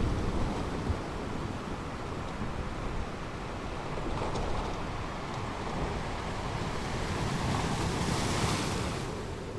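Ocean waves breaking on a beach, with a low rumble and wind on the microphone. Near the end a wave washes in with a rising hiss that then fades.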